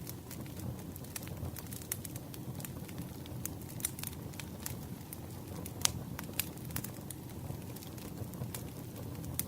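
Campfire crackling: sharp, irregular pops and snaps over a low steady rumble of burning wood, with the loudest pop about six seconds in.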